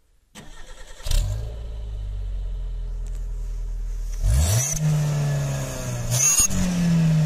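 Suzuki Jimny engine heard at the tailpipe: briefly cranked on the starter, catching about a second in and settling to a steady idle, then revved up twice. A cold start in snow, with white exhaust vapour pouring from the pipe.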